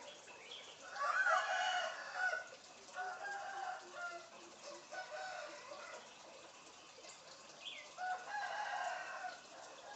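A bird giving rooster-like crowing and clucking calls: four calls, the first and loudest about a second in, two shorter ones in the middle, and another near the end.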